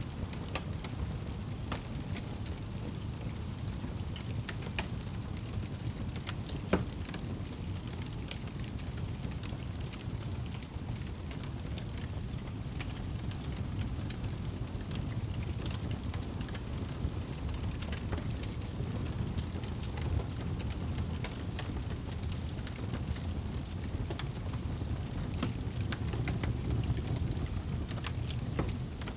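Wood fire burning in a fireplace: a steady low rumble of the flames with scattered crackles and pops, one sharper pop about seven seconds in.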